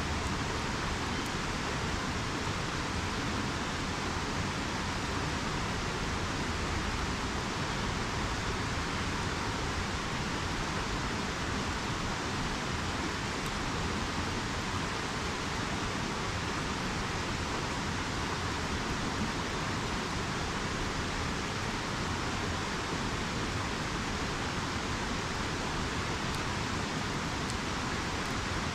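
Steady rush of river water, with a few faint campfire pops.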